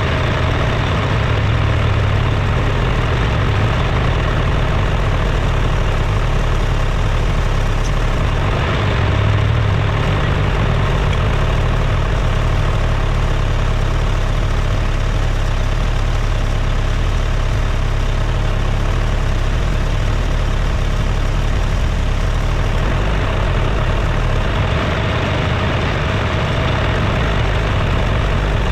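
A vehicle engine running steadily at a low, even speed, a constant drone.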